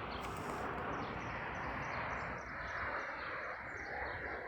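Outdoor ambience: a steady rushing background noise with a small bird chirping repeatedly, a few short chirps a second.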